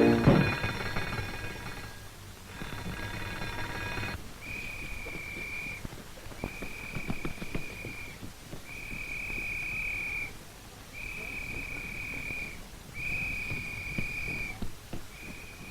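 A ringing sound with many overtones that stops about four seconds in, then a high steady alarm tone sounding in six blasts about a second and a half long, calling the anti-aircraft gun crews to their posts. Scattered knocks and clatter run beneath the blasts.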